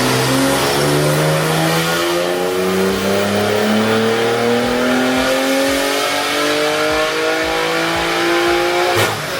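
Flash-tuned BMW S58 twin-turbo inline-six in a G80 M3 making a wide-open-throttle dyno pull, its pitch climbing steadily through one gear for about nine seconds. The run ends with a sharp crack as the engine comes off the throttle.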